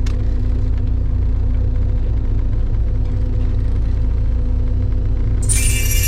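Fishing boat's engine running steadily underway: a deep, even drone with a constant hum. Near the end a bright, high sound with several held tones suddenly cuts in over it.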